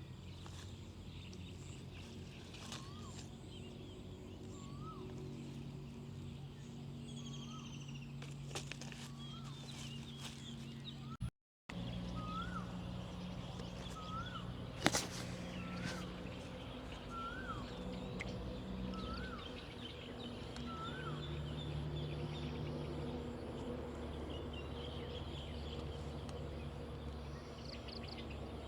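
Outdoor farm ambience with a bird calling over and over, short notes that rise and fall, and other birds chirping faintly, over a steady low hum. The sound cuts out briefly partway through, and there is a sharp click a few seconds later.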